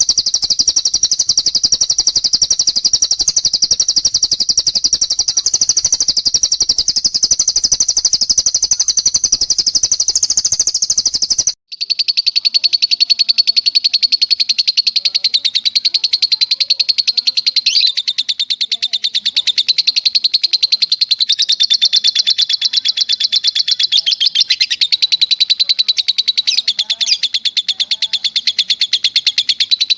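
Cage-bird trills from a bird-training recording: a very fast, unbroken, high-pitched trill that runs on continuously. About eleven seconds in, it cuts abruptly to another trill pitched somewhat lower. A faint haze of running water lies under the first part.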